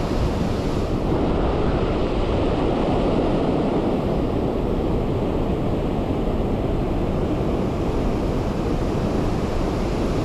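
Steady rushing noise of wind buffeting the microphone on an open boat, with no tones or knocks in it.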